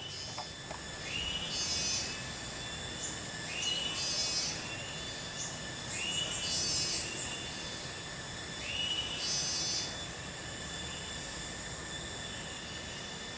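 Riverside ambience: a steady high insect drone over the even rush of the river's flow below the weir. A call repeats four times about two and a half seconds apart, each a short rising note followed by a buzzy burst, and stops about ten seconds in.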